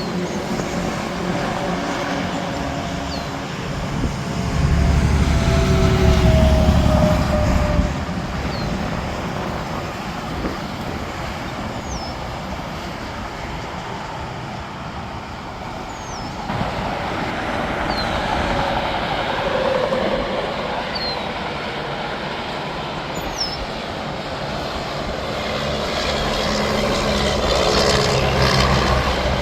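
Interstate traffic with semi-trucks passing one after another, tyre and engine noise swelling and fading as each goes by. The loudest pass comes about five seconds in with a deep rumble and a falling pitch; more trucks pass near the middle and near the end.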